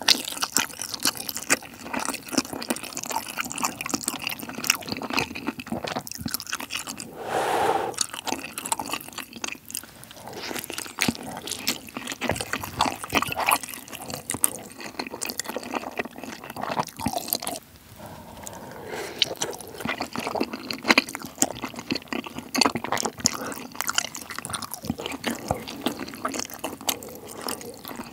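Close-miked eating sounds: wet chewing and smacking of a potato dumpling, a quick stream of small moist clicks.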